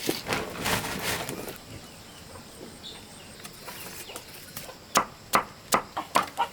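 A rustling noise, then near the end a quick run of sharp knocks, about three a second.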